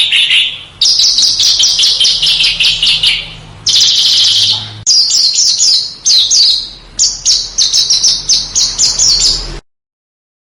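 Recorded song of small songbirds used as masteran: rapid trains of sharp, high chirping notes in phrases a second or two long, broken by short pauses. It stops abruptly near the end.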